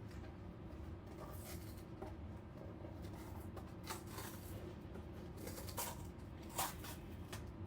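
Handling noises of a greens-powder tub and its scoop: several short rustles and scrapes as powder is scooped out, the loudest near the end, over a steady low hum.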